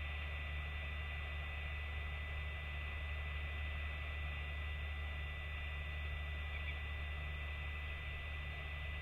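Steady low hum over an even hiss, unchanging throughout, with a thin steady high tone in it.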